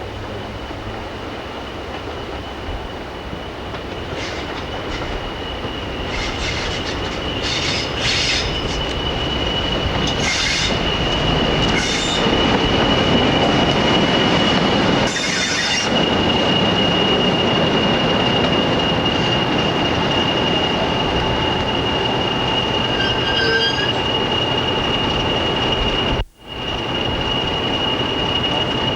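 A train on the line, growing louder over the first dozen seconds as it comes closer, then running steadily, with high wheel squeal in the middle stretch. Near the end the sound drops out for a moment.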